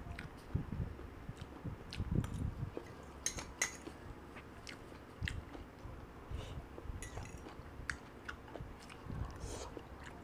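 A person chewing and biting mouthfuls of food close to the microphone, with irregular low chewing thuds and a few sharp clicks and smacks.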